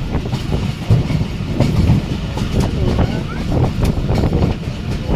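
Passenger train running at speed: a steady loud rumble with irregular clatter of wheels over the rail joints.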